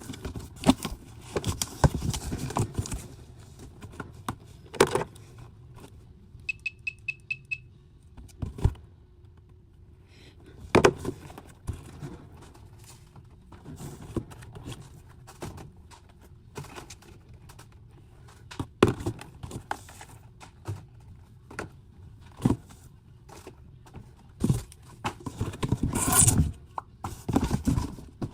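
Boxes and merchandise being handled while unpacking a truck delivery: irregular thumps, knocks, scrapes and rustling. About six and a half seconds in, a quick run of about six short, high electronic beeps.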